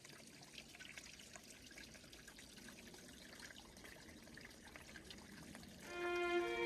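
Faint water trickling and splashing from a waterfall. Soft music with held notes comes in near the end.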